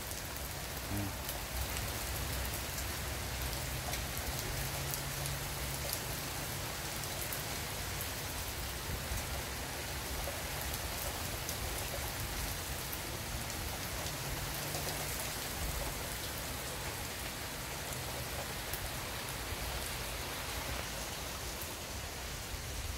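Steady rain falling on wet pavement, an even hiss that holds level throughout.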